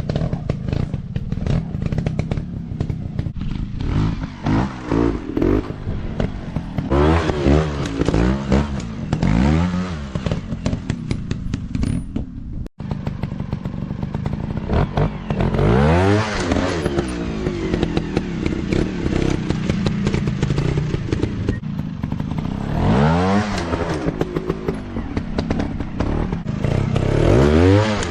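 Off-road dirt bike engines revving up and falling back again and again, with short knocks and rattles throughout.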